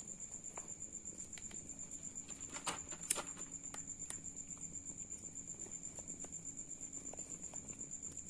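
An insect chirping steadily in a high-pitched trill that pulses about eight times a second. A couple of sharp clicks come a little before the halfway point.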